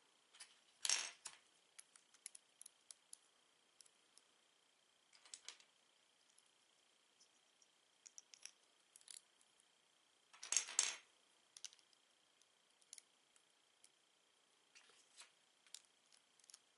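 Lego bricks being handled: scattered small plastic clicks and taps, with two louder rattles of loose pieces, about a second in and again about ten seconds in. A faint steady high tone sits underneath.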